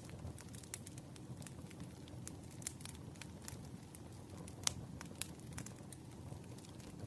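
Wood fire burning, with irregular sharp crackles and pops over a low steady rumble. One louder pop comes about two-thirds of the way through.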